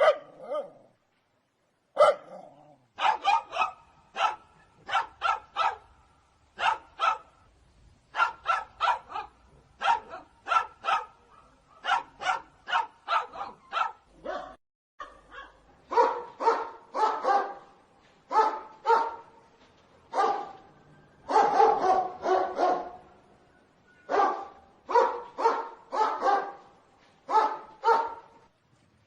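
Dogs barking repeatedly in quick runs of two to four barks with short pauses between. There is a break about halfway, after which the barks are lower and louder.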